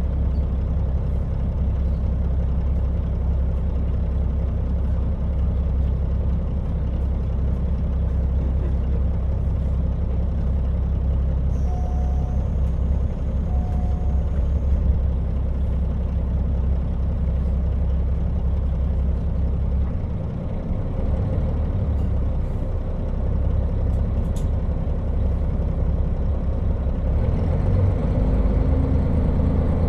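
KiHa 40 diesel railcar under way: a steady drone of the diesel engine with the running noise of the train. Two short beeps come about a second and a half apart. Near the end the engine note changes and grows a little louder.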